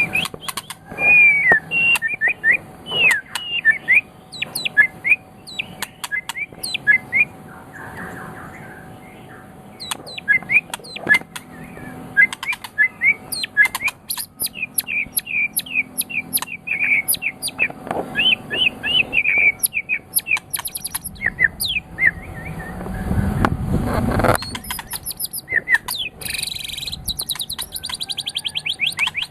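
White-rumped shama (murai batu, Medan type) singing a long, varied run of loud whistled phrases, sweeps and sharp clicks, with a rapid high buzzing trill near the end.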